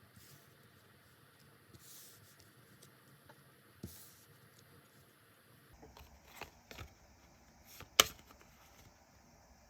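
Tarot cards being handled on a table in a quiet room: scattered soft taps and slides, a few quick clicks between six and seven seconds in, and one sharp click at about eight seconds.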